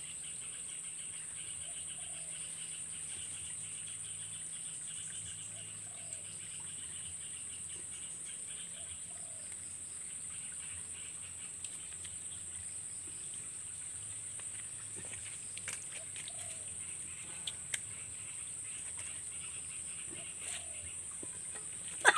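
Forest insects buzzing: a steady high-pitched drone, with a fast pulsing trill over it for about the first nine seconds. Faint short bird calls come every couple of seconds, and a few faint clicks come in the second half.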